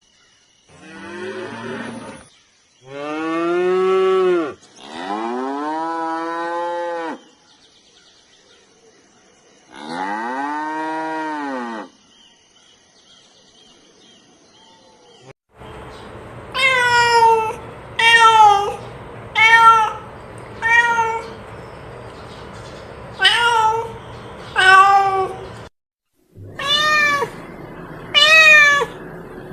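Cow mooing four times in long, drawn-out calls, followed by a run of about ten short cat meows over a faint steady background.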